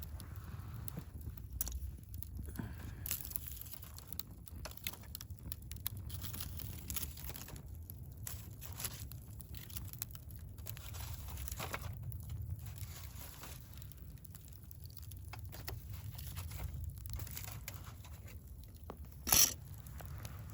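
Wood fire burning in a Picogrill 398 fire stand, crackling with irregular small pops over a low steady rumble, and one louder pop near the end.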